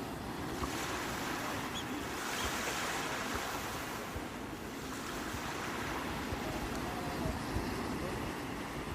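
Sea waves washing onto the shore, with surf hiss swelling about half a second in and again from about two to three and a half seconds in.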